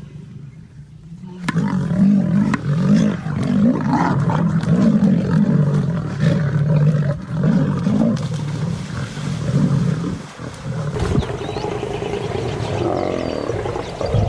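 Lion growling: a long run of low, pulsing growls starting about a second and a half in and easing off after about ten seconds.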